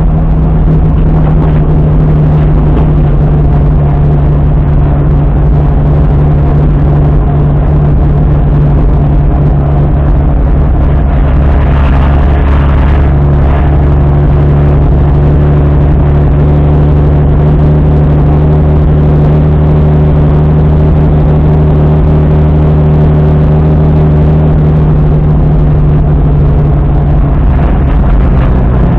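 Opel Commodore A's straight-six engine running steadily at low revs while the car rolls slowly, heard from inside the car. The pitch stays nearly level, with a short rise in harsher noise about twelve seconds in.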